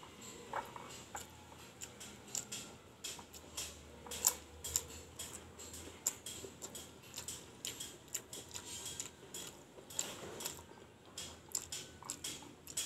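Close-up eating at a meal: irregular sharp crunches, clicks and taps of utensils on a plate, several a second, the loudest about four seconds in.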